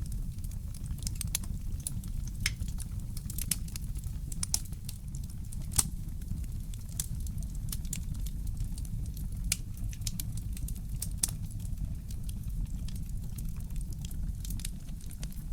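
Fireplace crackling: scattered sharp pops and snaps at irregular intervals, one louder pop about six seconds in, over a steady low rumble.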